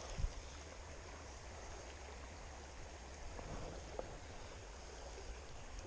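Grape Creek's water running steadily, a soft, even rushing, with a couple of faint clicks.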